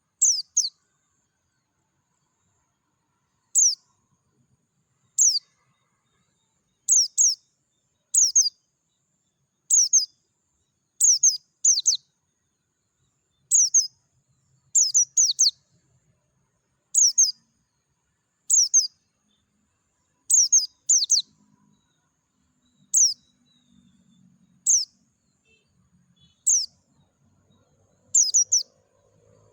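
A white-eye (pleci dakun) singing: short, high chirps that fall steeply in pitch, often two or three in quick succession, repeated every second or two.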